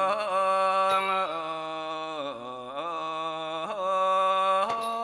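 Thai classical vocalist singing a long, drawn-out melismatic line, holding vowels while the pitch slides and bends between notes.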